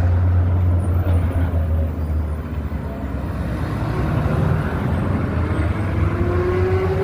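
Car engine running with a deep, steady rumble, easing slightly midway and building again, with a faint rising whine near the end.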